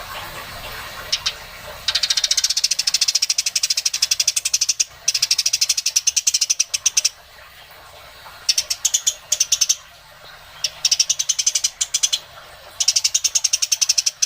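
Songbird nestlings begging for food: bouts of rapid, high-pitched chirping, many chirps a second, each bout lasting one to three seconds and coming several times over with short pauses between.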